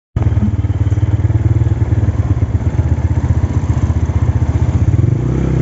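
Motorcycle engine running with a rapid, even low beat; its note shifts slightly near the end.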